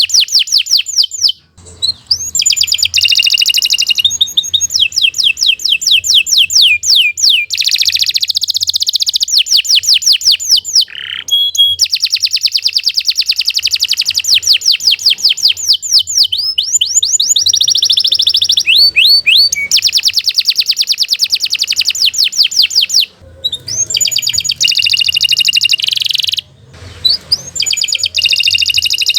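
Domestic canary singing a long song of fast trills, each a rapid run of repeated high sweeping notes, changing from one trill to the next, with a few brief pauses.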